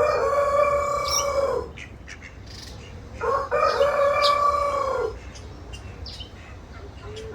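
A large bird gives two long, loud calls about three seconds apart, each held and then falling away at the end. Small birds chirp faintly in the background.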